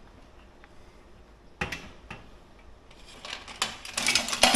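Metal awning-arm hardware being handled: one sharp metallic click about a second and a half in, then a busier run of clicking and rattling that grows louder near the end.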